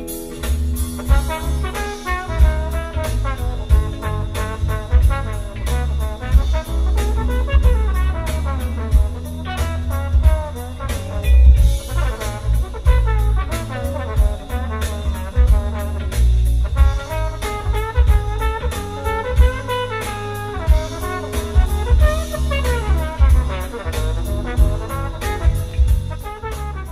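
Brass-led instrumental music with a heavy bass line and a steady drum beat, played back through a car's upgraded audio system and heard inside the cabin.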